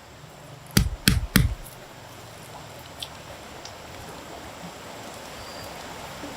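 Three sharp knocks in quick succession, about a third of a second apart, followed later by a single faint click against a steady background hiss.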